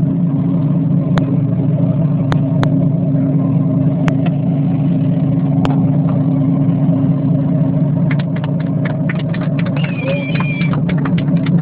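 A boat's engine running steadily, a low, even drone. A few sharp clicks break in now and then, and near the end a quick run of clicks comes with a short high gliding squeak.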